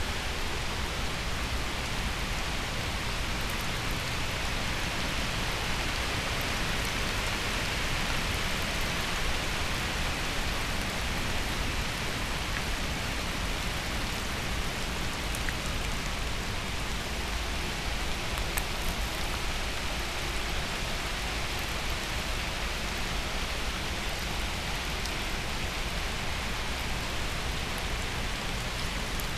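Steady rain falling on wet garden soil, leaves and concrete during a hurricane, an even hiss with a low rumble underneath and a few faint drop ticks.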